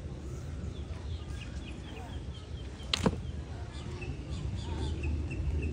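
A small bird chirping in short, repeated high notes over a steady low outdoor rumble, with one sharp click about three seconds in.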